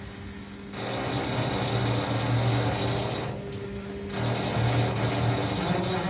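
A small motor buzzing in two long runs, the first about two and a half seconds and the second about two seconds, with a short pause about three seconds in, over a steady low hum.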